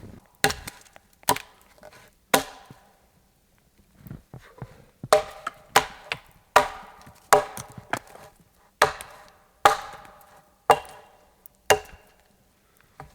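An axe chopping into a log, one strike about every second with a short ringing knock on each blow. Three strikes, a pause of a couple of seconds, then a steady run of about eight more.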